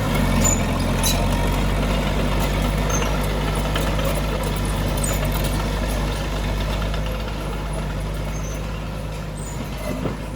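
Heavy diesel engine of earthmoving machinery running steadily, gradually getting quieter in the second half.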